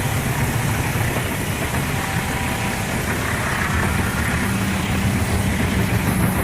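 A train's diesel locomotives running, a steady low rumble; a faint steady hum joins in about four and a half seconds in.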